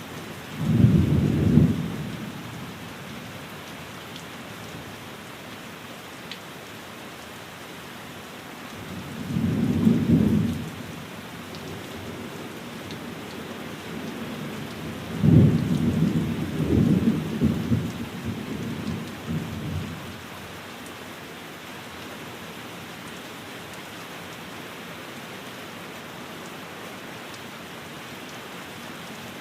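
Steady rain on a window, with three low rumbles of thunder: a short one about a second in, another around ten seconds, and a longer rolling one from about fifteen to twenty seconds.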